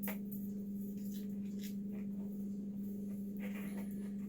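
Faint rustling and a few light clicks of hands smoothing cut paste onto a fresh pruning cut on a crape myrtle bonsai, over a steady low hum.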